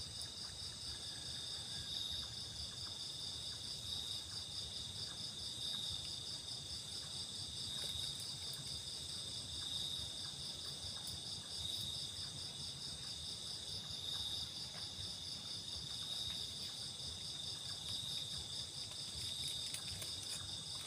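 Chorus of crickets and other insects trilling steadily. One high trill pulses rapidly, and another swells about every two seconds.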